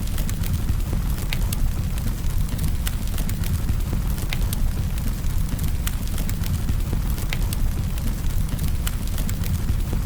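Campfire burning: a steady low rumble of the flames with scattered sharp crackles and pops from the burning wood, roughly one every second.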